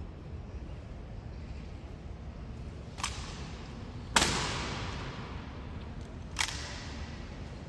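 Honor guard rifle drill: three sharp cracks of hands slapping and catching rifles, about three, four and six and a half seconds in, the middle one the loudest, each ringing on briefly after the strike.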